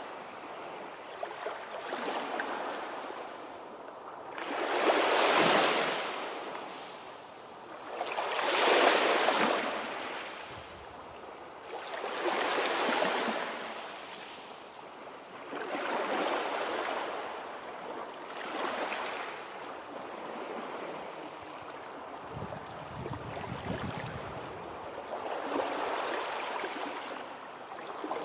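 Sea waves washing onto a shore, the rushing swelling and falling back about every three to four seconds, the biggest swells in the first ten seconds and gentler ones after.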